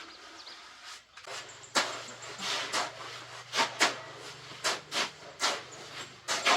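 A hand tool raking or scraping loose material out, in a dozen or so irregular scraping strokes starting about two seconds in, with a steady low hum running underneath from about a second in until near the end.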